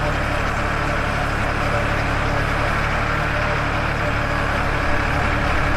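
Farmtrac 60 tractor's diesel engine running steadily at an even pace while the tractor is driven.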